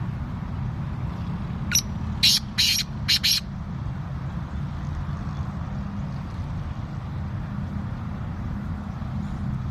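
Male black francolin calling: a quick run of four loud, harsh notes about two seconds in, over a steady low rumble.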